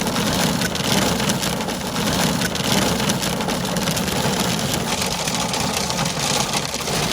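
Hail falling hard: a dense, steady clatter of countless hailstones striking hard surfaces, with a low rumble underneath.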